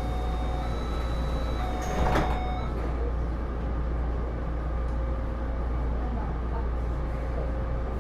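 Inside a Taipei Metro Series C301 car: a steady low hum with several held electrical tones from the Bombardier IGBT-VVVF traction equipment, fading after about three seconds. There is a short clatter about two seconds in.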